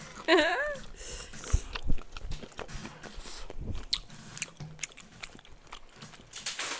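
Close-up chewing and biting of food into the microphone, with scattered wet smacks and clicks throughout. A short wavering vocal sound comes about half a second in.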